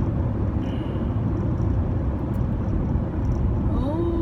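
Steady low rumble of a car being driven, heard from inside the cabin: tyre and road noise with the engine under it. Near the end a voice starts, gliding in pitch.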